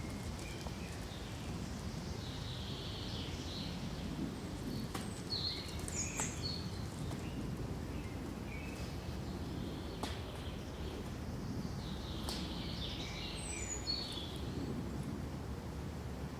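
Forest ambience: a steady low background rumble with small birds giving short, scattered chirps and calls, and a couple of sharp ticks about six and ten seconds in.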